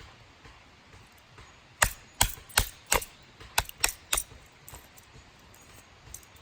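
Small firewood being cut up for kindling: about seven sharp wooden cracks in quick, uneven succession over a couple of seconds.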